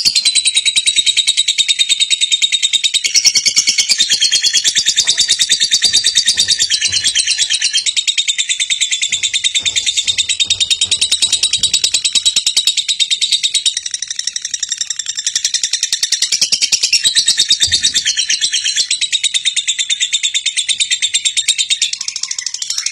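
High-pitched bird chirping: a continuous, rapid, even trill with a steady whistling tone.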